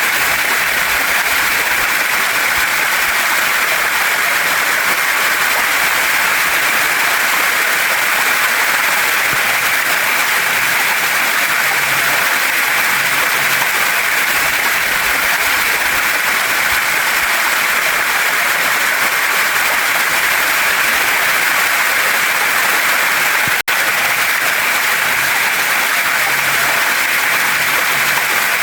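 Waterfall and mountain stream water rushing over rocks in a steady, unbroken hiss, with a split-second dropout about two-thirds of the way through.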